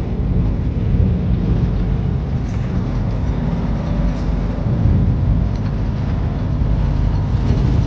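Moving truck: a steady low rumble of engine and road noise.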